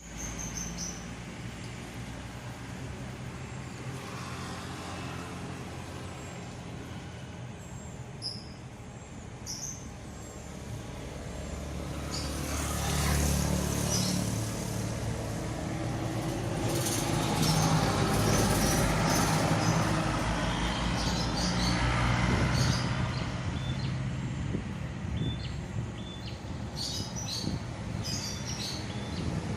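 Strong wind gusting through trees, swelling and fading, over the steady low hum of an engine running, with small birds chirping now and then.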